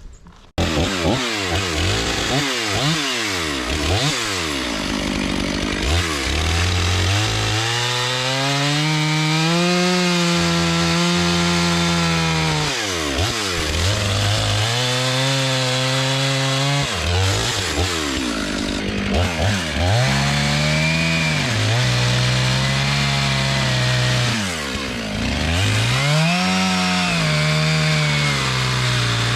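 Stihl MS500i fuel-injected two-stroke chainsaw revving up and down over and over while bucking logs, holding high revs for several seconds at a stretch with the pitch sagging and recovering. It comes in suddenly about half a second in.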